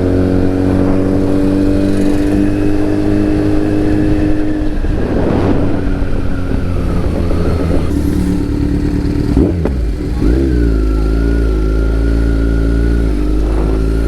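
Motorcycle engine running while riding, at fairly steady revs. About two-thirds of the way through the revs dip briefly and climb back, then hold steady again.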